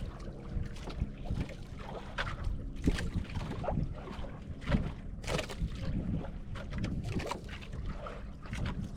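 Water slapping and knocking irregularly against the hull of a small fishing boat at sea, over a low rumble of wind and sea.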